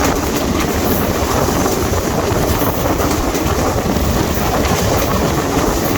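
Train running at speed: a loud, steady rumble of wheels on the rails, with a clickety-clack.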